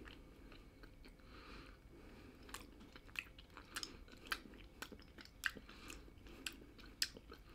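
Faint chewing of a hard snack stick with bare gums, no teeth. It is quiet at first, then from about two and a half seconds in there are wet clicks and crunches about twice a second.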